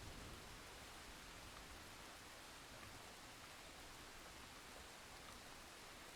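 Faint, steady rain hiss between thunderclaps in a thunderstorm recording, with the last of a low thunder rumble dying away at the very start.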